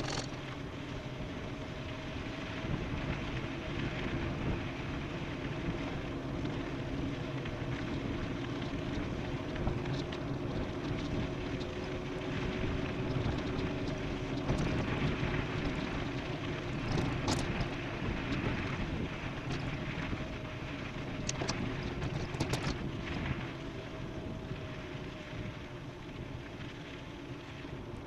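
Wind rushing over the microphone and tyre noise from an e-bike riding downhill at speed, with a steady hum under it and a few sharp clicks about two-thirds of the way through.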